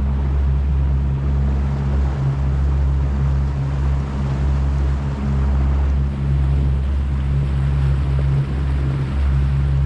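Boat engine running steadily at an even pitch, a constant low hum over a wash of noise.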